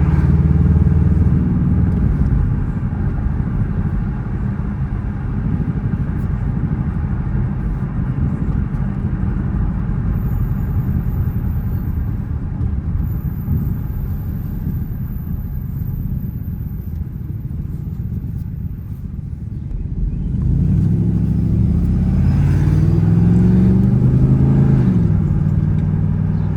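Dodge Charger R/T's 5.7-litre Hemi V8 running while driving: a low, steady rumble for most of the stretch, then about twenty seconds in it revs up under acceleration, its pitch climbing for a few seconds before dropping, as at a gear change.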